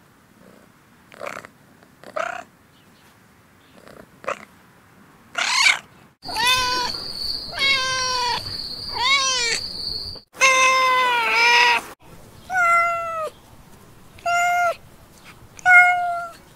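Domestic cat meowing over and over while eating. A few faint short meows come first, then louder, longer meows from about six seconds in, and near the end a run of short meows about every second and a half.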